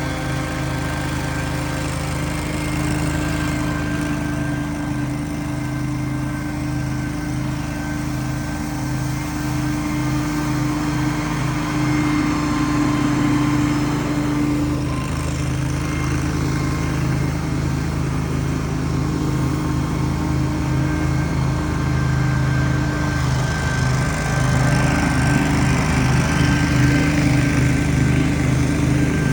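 Small engine of outdoor power equipment running steadily, a little louder in the last few seconds.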